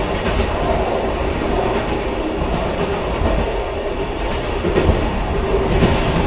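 A railcar running along the track: a steady rumble of wheels on rails, with a few light knocks from the running gear near the start and near the end.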